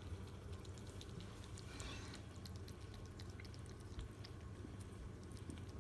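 Quiet room tone: a steady low hum with scattered faint small clicks and ticks.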